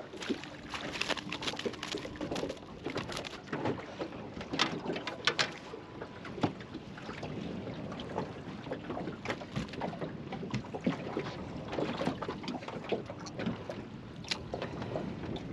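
Wind-driven water lapping and slapping against a small boat's hull, with irregular small splashes and knocks.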